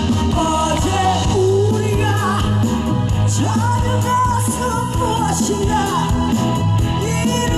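Live rock-style band music with a lead melody line that bends and slides in pitch, between sung lines.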